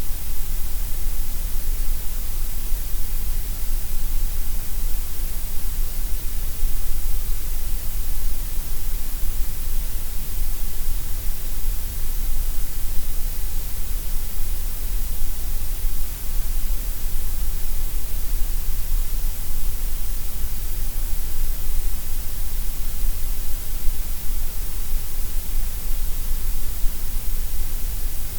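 Gray noise: a steady, unchanging synthetic hiss, heavier in the deep bass and the treble than in the middle.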